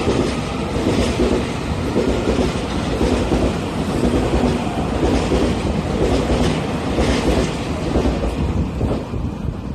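Taiwan Railway EMU3000 'new Tze-Chiang' electric multiple unit passing through the station without stopping: a loud, steady rumble of wheels on rail with a repeating clatter as the cars run by.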